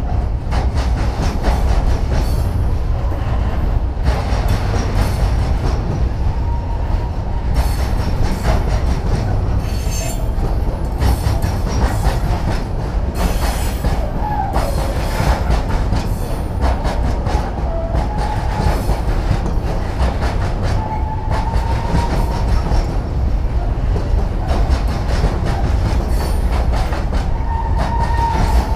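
Container freight train's wagons rolling past at close range: a steady low rumble with repeated wheel clicks, and faint wavering wheel squeal coming and going several times.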